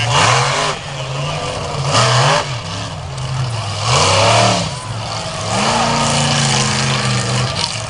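Snake Bite monster truck's supercharged V8 revving hard in three sharp bursts about two seconds apart, then held at a steadier pitch, as the driver works the truck up onto its rear wheels for a wheelie.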